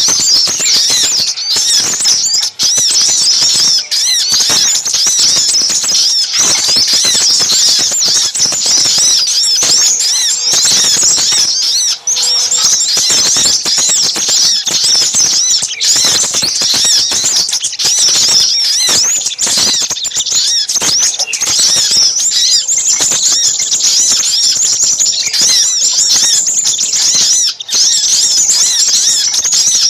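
Bird-lure recording of small birds calling noisily, sogok ontong mixed with sepah raja (crimson sunbird): dense, rapid, high-pitched chirping and twittering, many calls overlapping without a break.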